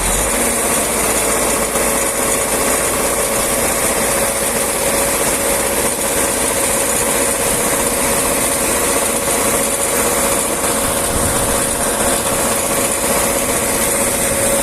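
A farm machine's engine running steadily, with a constant whine over a loud hiss and no change in speed.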